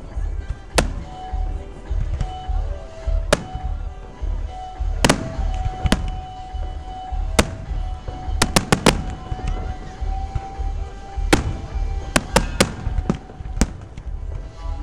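Fireworks bursting overhead: about a dozen sharp bangs at irregular intervals, several coming in quick clusters. Music with held notes plays underneath.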